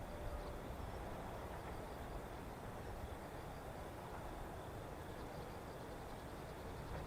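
Faint outdoor background: a low, uneven rumble under a steady hiss, with faint high chirping from insects.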